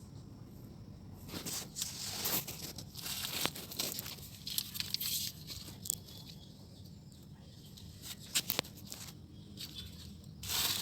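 Electrical insulating tape being pulled off the roll and wrapped around wiring-harness wires, in irregular rasping strips, with crinkling of plastic and small handling clicks.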